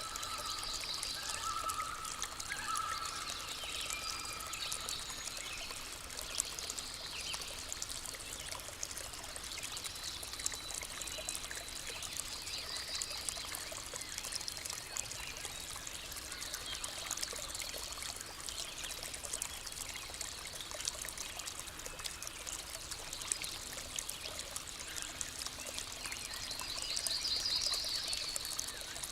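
Steady trickling of a forest stream, with a few birds calling over it in short trills, the loudest near the end.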